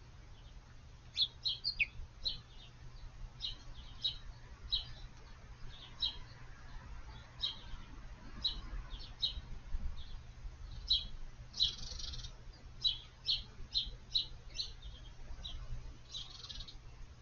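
A bird calling a long, irregular series of short, sharp high chip notes, about one or two a second, with two harsher, scratchy notes about twelve and sixteen seconds in.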